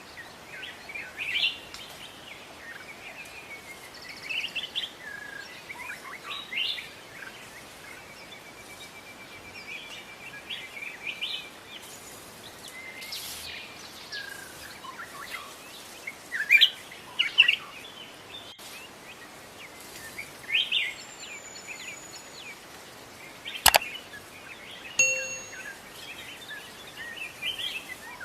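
Several wild songbirds chirping and calling in short, scattered phrases over a steady faint background hiss, with one sharp click about three-quarters of the way through.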